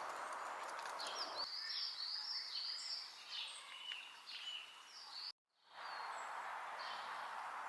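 Small birds chirping and singing in quick, repeated high notes over a steady rushing noise. The rushing stops suddenly about a second and a half in, leaving the birdsong on its own. The sound then cuts out completely for a moment a little after halfway, and the rushing comes back.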